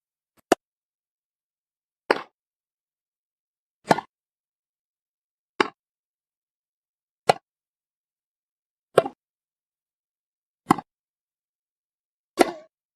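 A short, sharp knock-like sound repeated eight times, evenly about every 1.7 seconds, with dead silence in between.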